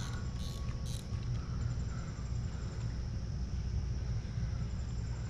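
Insects chirping steadily in a high, pulsing trill over a steady low rumble, with two brief rustles about half a second and a second in.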